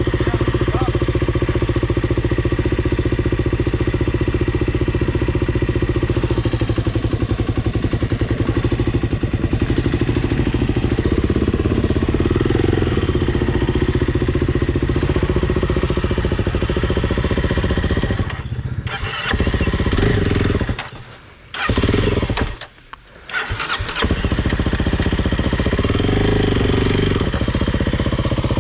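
Dirt bike engine running steadily. Roughly two-thirds of the way in, its sound drops away twice, each time for about a second, and then comes back.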